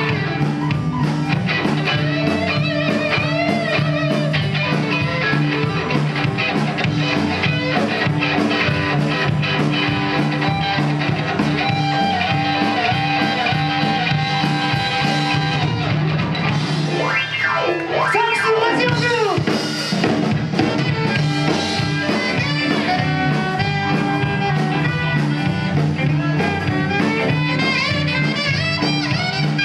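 A live band playing an instrumental passage with drum kit, guitar and horns, with no singing. About seventeen seconds in there is a short passage of bending, sliding notes.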